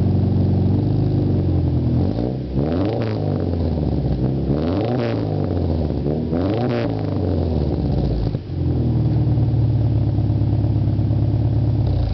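Subaru car engine through an aftermarket racing exhaust, idling, then revved up and back down about three times before settling back to a steady idle.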